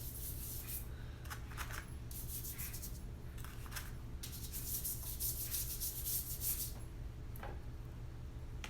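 Watercolour paintbrush stroking across paper, a soft rubbing hiss in several spells of brushwork, the longest about four seconds in, over a steady low electrical hum.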